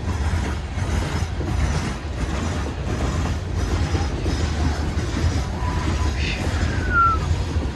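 Long Union Pacific freight train's cars rolling past at slow speed: a steady low rumble of wheels on rail, with a short squeal about six to seven seconds in.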